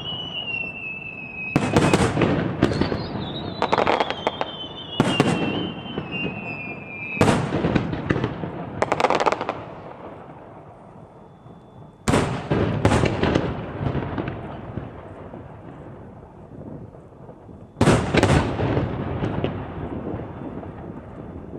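Aerial fireworks shells bursting: about nine loud booms in uneven clusters, each trailing off in crackle and echo. A high whistle glides down in pitch through the first seven seconds.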